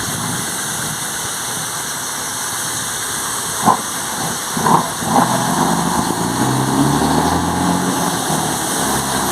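Scania 113 truck's straight-six diesel running while stationary, its turbocharger fitted with a 'pente' comb so that it whistles ('sings') steadily over the engine. A few short sharp sounds come about halfway through, after which the engine runs a little louder.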